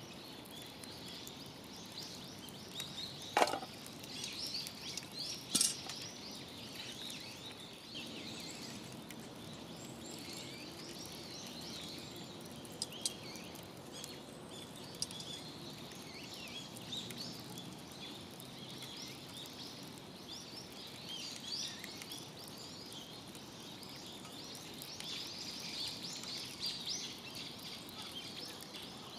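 Wood fire crackling steadily in a fire stand, with a few sharper pops, the two loudest about three and a half and five and a half seconds in.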